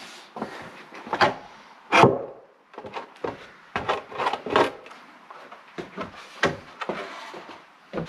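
Wooden boards knocking and clunking as they are handled and fitted into place: a string of irregular knocks, the loudest about two seconds in.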